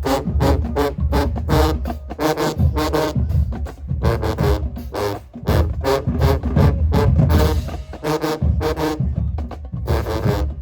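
High school marching band playing loudly: pitched brass notes over a driving, rapid drum rhythm with heavy bass drum, and a bright cymbal-like crash about seven and a half seconds in.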